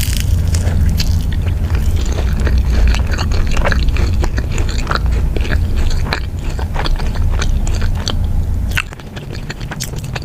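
Close-miked ASMR eating: biting and chewing with many crisp crackles and wet clicks, over a low hum that drops away near the end.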